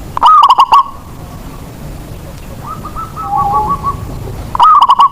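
Zebra dove (perkutut) cooing: a loud phrase of quick staccato coos shortly after the start and another near the end, with a fainter run of coos about three seconds in.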